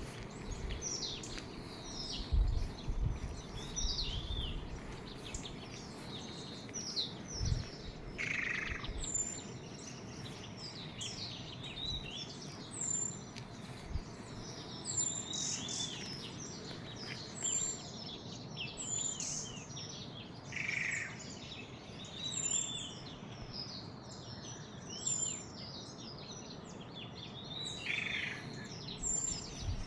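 Many birds chirping and calling together in a morning chorus, with one short high call repeating every second or two through the middle. There are a few low thumps near the start.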